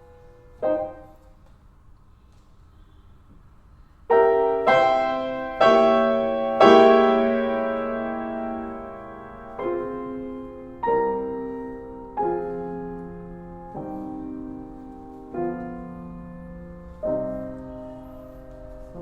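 Solo piano playing slow, sustained chords. A soft opening is followed by four loud chords a little after four seconds in, then quieter chords struck about every second and a half, each left to ring and fade.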